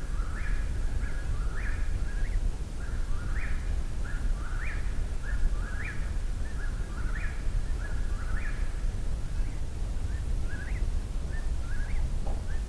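Eastern whip-poor-will singing close by, repeating its whip-poor-will phrase over and over at about one phrase every second and a quarter. A steady low rumble runs underneath.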